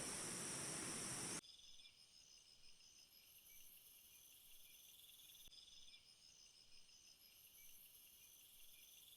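Loud, dense insect chorus with a strong high buzz that cuts off abruptly about a second and a half in. It gives way to a much quieter insect chorus of steady high chirping pulses and trills.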